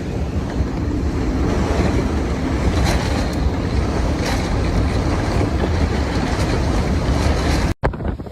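Strong wind buffeting the microphone over rushing storm-surge water, a steady heavy rumble. It breaks off briefly near the end at a cut.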